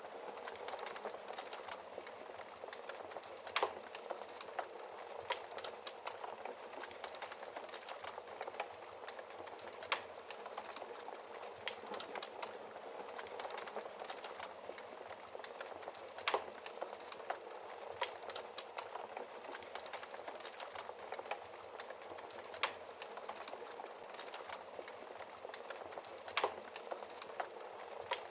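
Wood fire burning in a fireplace: a steady hiss full of small crackles, with a handful of louder sharp pops from the burning logs.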